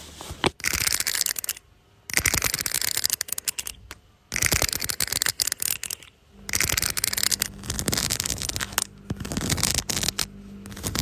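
Hands stroking fur close to the microphone: five crackly rustling strokes, each lasting one to two seconds, with short pauses between them.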